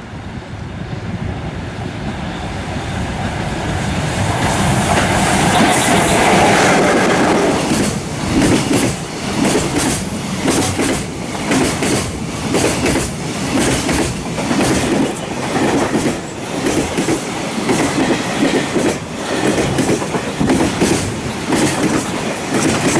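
Freight train passing at speed behind an EF-class electric locomotive. Its rumble builds over the first few seconds as the locomotive comes up and goes by. Then the wagons' wheels clatter over the rail joints in a steady clickety-clack, about two knocks a second.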